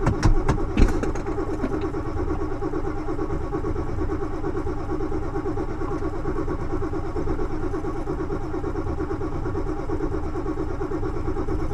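Ford F-250 diesel engine idling steadily after a cold start, with a few sharp knocks in the first second.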